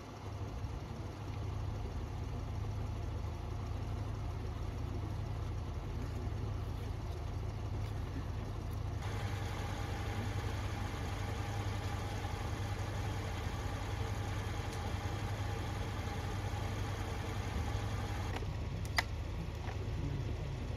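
Vehicle engines idling: a steady low rumble. About halfway through a steady mid-pitched hum joins it and stops a couple of seconds before the end. Near the end there is one sharp click.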